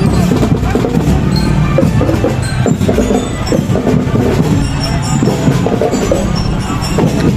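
Elementary-school marching band playing, with drums and other percussion beating under the tune.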